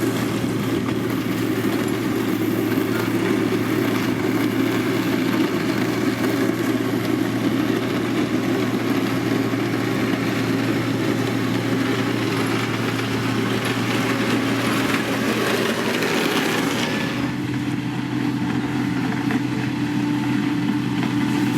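Diesel engine of a heavy road-construction machine running steadily with a low hum. About three-quarters of the way through, the harsher, higher part of the sound drops away and the engine runs on more evenly.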